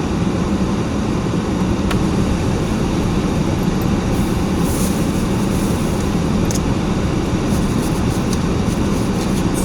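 Steady rushing noise inside a running car's cabin, with a few faint clicks.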